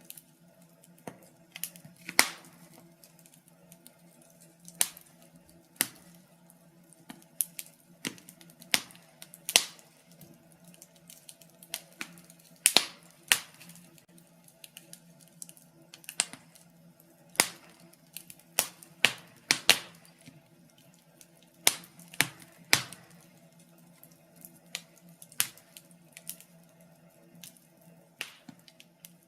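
Wood fire in a fireplace crackling, with sharp pops and snaps at uneven gaps, sometimes several in quick succession, over a faint steady low hum.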